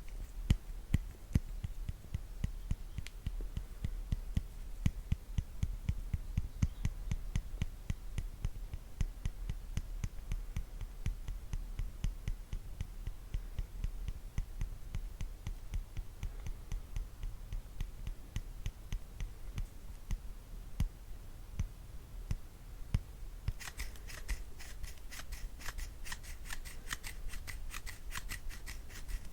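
Brush strokes on the microphone, quick and evenly repeated at about four a second with a low thump to each; a little after twenty seconds in they turn brighter and crisper.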